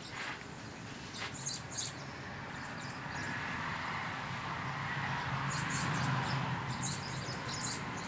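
Small birds chirping: a few short high chirps about a second in and a quicker run of them near the end, over the hum of passing traffic that swells in the middle.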